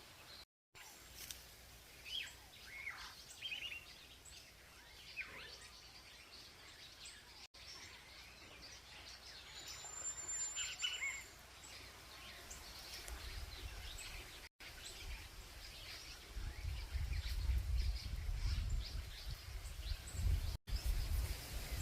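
Several birds chirping and calling, with short scattered calls and one thin, high, steady whistle held for about a second. In the second half a low rumble comes in and grows louder than the birds.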